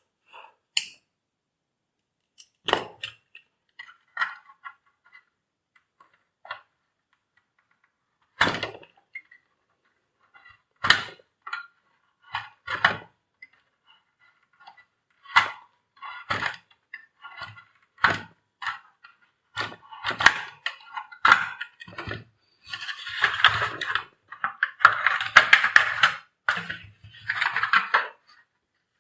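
Hard clicks, knocks and rattles of plastic parts and tools as the vacuum cleaner's retractable cord reel assembly is handled. Scattered single knocks at first, growing denser, then a longer rattling scrape for several seconds near the end.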